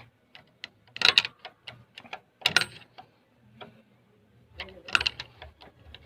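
Hand tools clicking and clinking on metal engine parts during work on a truck engine's connecting rod big end, with three sharper metallic clanks about a second in, halfway through and near five seconds.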